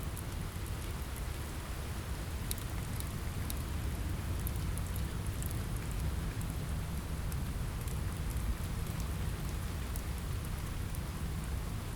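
Steady rain on a window with a low rumble underneath, and a few sharp crackles and pops from a wood fire scattered through it.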